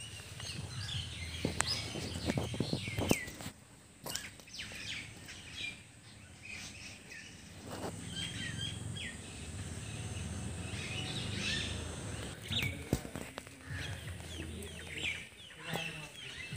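Small birds chirping in quick, repeated short calls, with a few sharp knocks and a steady low background hum.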